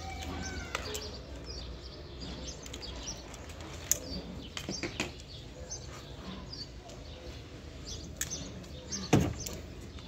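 Small birds chirping on and off over a low steady hum, with a few sharp clicks and a louder short thump near the end.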